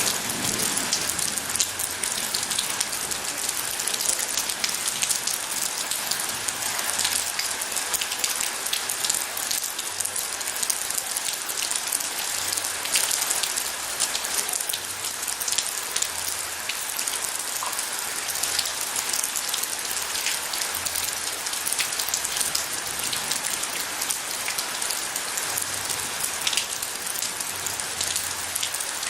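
Steady rain falling, with many close drops striking sharply among the even hiss.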